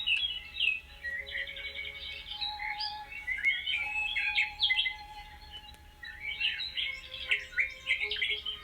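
Several small birds chirping and twittering rapidly, their calls overlapping, with a brief thinning about five to six seconds in. A faint steady hum lies underneath.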